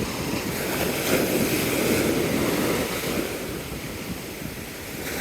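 Surf breaking and washing on the shore, mixed with wind on the microphone; the rush swells over the first couple of seconds and eases off after about three seconds.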